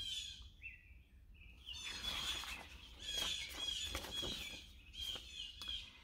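Wild songbirds chirping and singing in the background, a run of short, high calls.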